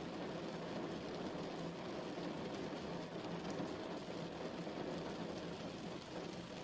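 Steady rain falling, a dense even hiss of drops with no thunder.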